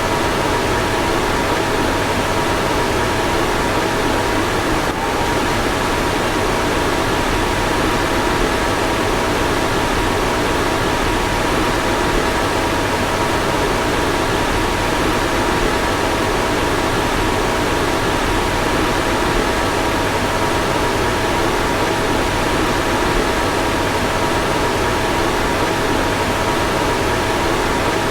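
Car ventilation blower fan running steadily: an even rush of air with a faint constant whine.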